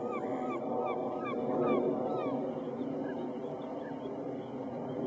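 A bird calling in a quick series of short hooked notes, about three a second, that dies away about two seconds in, over a steady low background rumble.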